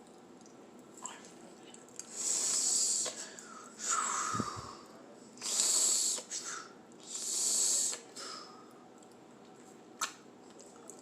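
A person breathing hard through the mouth: four long, hissing breaths about a second each, with a short click near the end.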